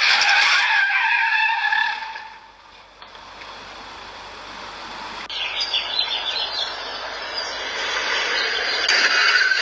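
Car tyres squealing in a skid for about two seconds, the squeal sliding down and fading out. After a sudden change in the recording, a steady noise of road traffic builds toward the end.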